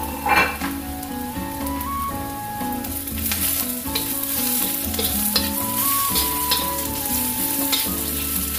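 Chopped onion with ginger and garlic paste sizzling in hot oil in a steel wok, stirred and scraped now and then with a metal spatula. The sizzle grows louder about three seconds in.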